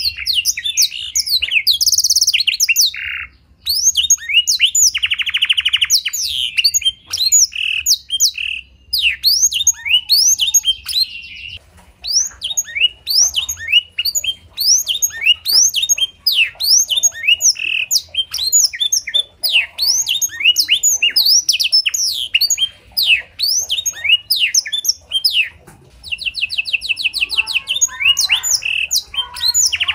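Domestic canary singing a blackthroat-style song: a continuous run of fast, high downslurred chirps mixed with several rapid buzzy trills, with a brief pause a few seconds in.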